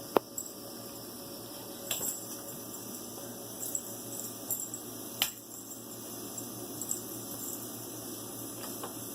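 Light clicks and clinks of small objects being handled, with one sharp click near the start, another about two seconds in and a louder one about five seconds in, over a steady hum.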